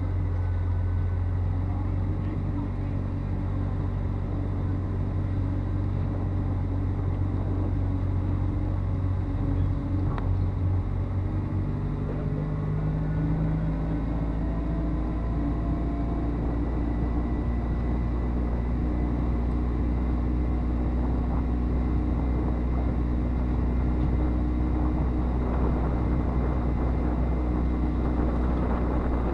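Car engine running at a steady speed, an even hum, with its note dropping to a lower pitch about twelve seconds in.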